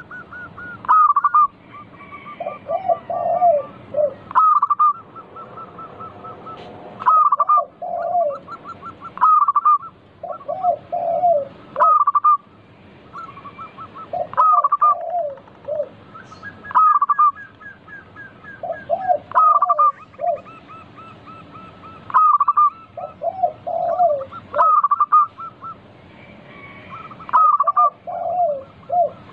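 Zebra doves (perkutut) cooing, one short phrase after another about every two to three seconds, a higher voice and a lower voice answering each other.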